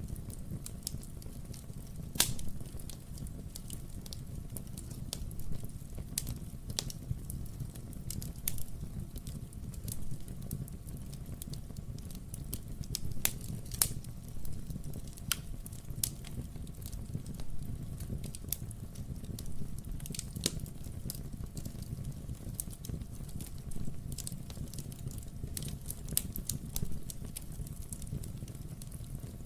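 Wood-burning fireplace crackling: irregular sharp pops and snaps from burning logs over a low, steady rumble of the flames.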